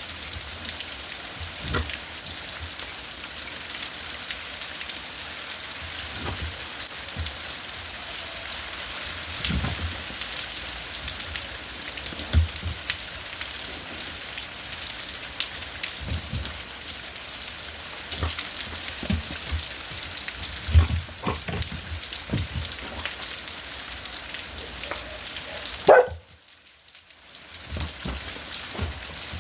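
Rain and hail falling steadily: an even hiss with scattered knocks. Near the end a short louder sound comes, then the sound almost cuts out for a second or so.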